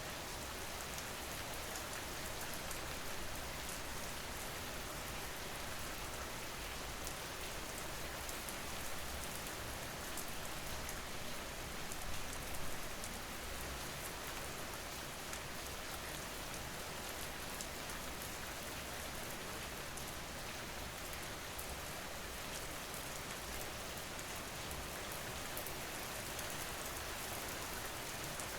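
Steady rain falling on a surface, with fine pattering drops, and a brief swell in loudness about twelve seconds in.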